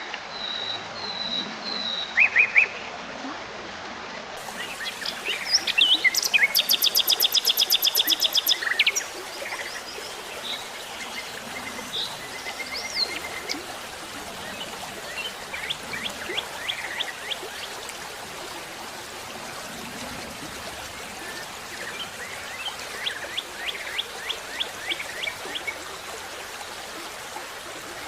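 Wild birds chirping, with a loud, fast trill of evenly repeated notes starting about six seconds in and lasting about three seconds, and a second run of quick notes near the end, over a steady hiss.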